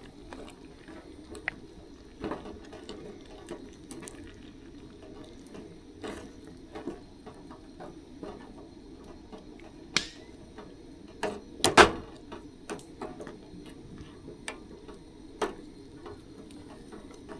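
A pan of beans and hot dogs simmering with a low steady bubbling, under scattered light clicks and a few sharper knocks of a utensil on the pan as the food is dished out. The loudest knocks come a little past the middle.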